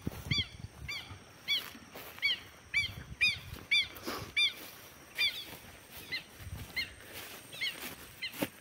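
A bird calling over and over in short, arched, nasal notes, about two a second.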